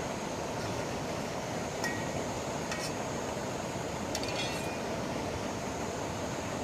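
Steady rush of flowing river water, with a few light clicks or clinks at about two, three and four seconds in.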